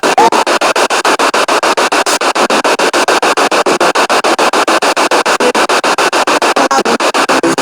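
Spirit box radio sweeping rapidly through stations: loud static chopped into short slices about ten times a second, with brief snatches of tone as it passes stations.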